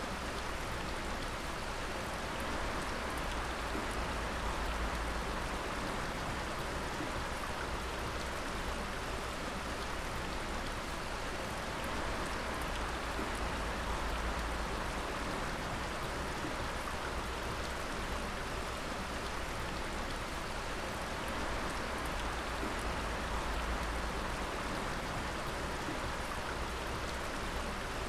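Water dripping and pattering steadily onto water and rock, a dense continuous patter like rain.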